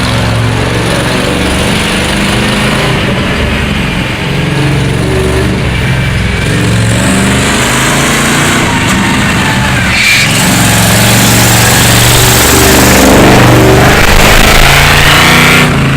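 Monster truck engine running loud, its pitch shifting up and down as it revs, with a broad hiss building from about ten seconds in.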